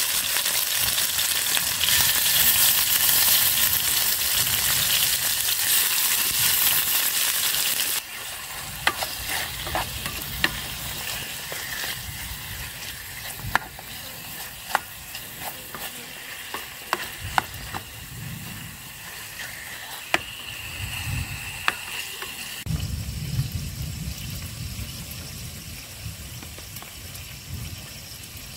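Marinated meat sizzling loudly in a small non-stick pan on a camping stove. About eight seconds in the sizzling drops, and a spoon stirring the pieces clicks and scrapes against the pan. A low rumble takes over for the last few seconds.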